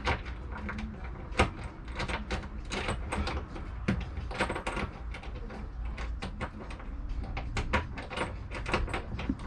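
Irregular clicks, knocks and clatter of hand-tool work: a driver turning a fastener on a boat's fuel-tank fitting, with metal parts rattling.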